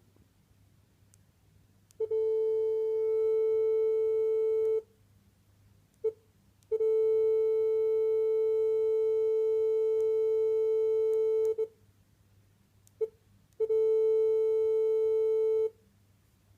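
A single steady pitched tone, rich in overtones, held three times: about three seconds, then about five, then about two, with two brief blips of the same note in the gaps.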